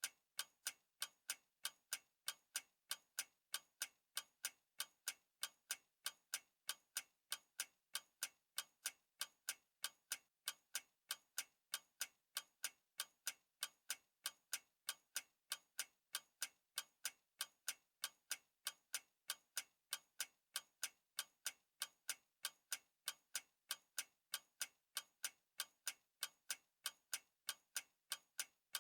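Clock ticking steadily, a sharp even tick a little more than twice a second.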